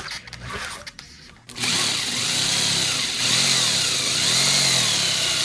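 Jigsaw switched on about a second and a half in, cutting at an angle into 2-inch insulation foam. Its motor pitch wavers up and down as the blade meets the foam.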